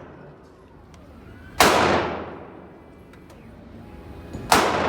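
Two 9mm pistol shots from a Glock 19 Gen 4 in a CAA Micro Conversion Kit, about three seconds apart (slow, aimed fire), each followed by a long echoing decay.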